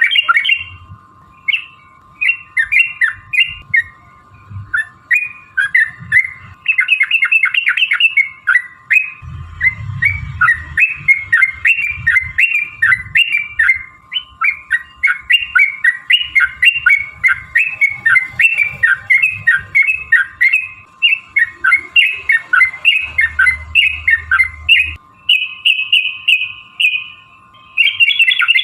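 Yellow-vented bulbul (trucukan) singing a long, rapid run of bubbly chattering notes that come in quick bursts with only brief pauses, over a steady faint hum.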